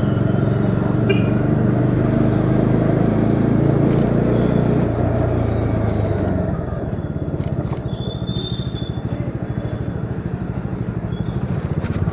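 Bajaj Dominar 400's single-cylinder engine running under way, then dropping back in revs about six seconds in to a slower, evenly pulsing beat.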